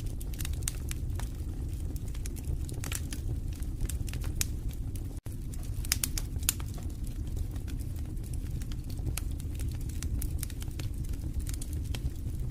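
Wood fire burning in a fireplace: a steady low rumble of flames with frequent irregular crackles and sharp pops. The sound cuts out for an instant about five seconds in.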